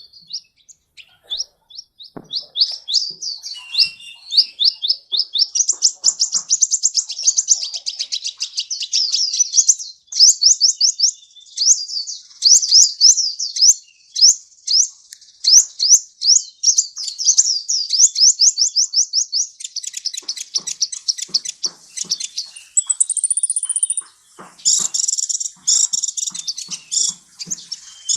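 Kolibri (sunbird) singing a long, fast song of high, sweeping chirps, several notes a second, running on with hardly a break. Near the end a brief higher, steady whistle comes in, then denser bursts of notes.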